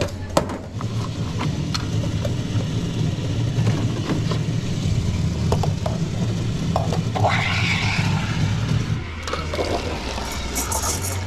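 Espresso machine running: a steady low pump hum with light clinks of cups and utensils, and a short burst of hiss about seven seconds in. The hum stops about nine seconds in.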